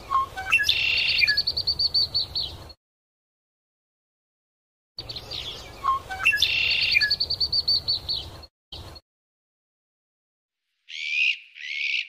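Small birds chirping: a rapid run of high chirps, about ten a second, mixed with a few lower single notes, heard as two identical bursts of about three seconds with silence between. Two short calls come near the end.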